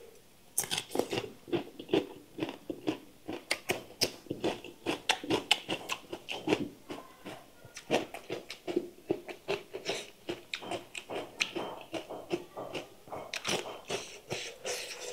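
Close-miked chewing of a mouthful of raw cucumber: crisp crunches, about three a second.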